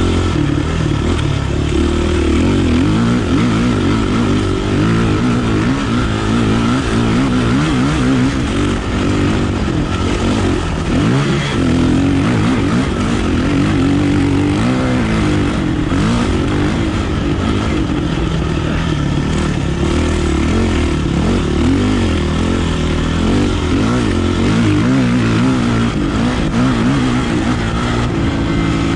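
Kawasaki KLX450R dirt bike's single-cylinder four-stroke engine being ridden, the revs rising and falling repeatedly with the throttle.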